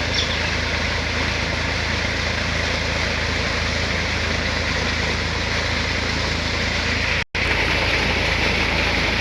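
Tractor engine running steadily to drive a tubewell pump, with water gushing from the bore. The sound cuts out briefly about seven seconds in.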